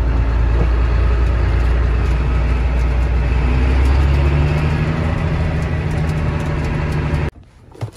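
Tractor engine running steadily under way, loud and droning with a deep hum; its note shifts higher about halfway through, then the sound cuts off abruptly near the end.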